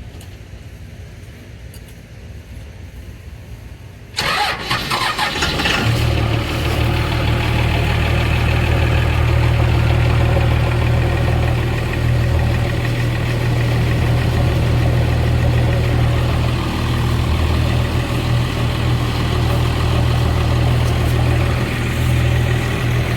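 12-valve Cummins turbo diesel, a 5.9-litre inline-six, starting about four seconds in after sitting unused for a while, then settling into a steady idle.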